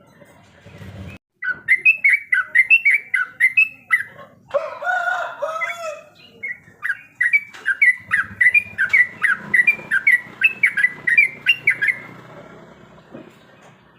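Yellow-vented bulbul (trucukan) singing a fast, chattering run of repeated bright notes. Its two long bursts of song are broken by a lower phrase about five seconds in.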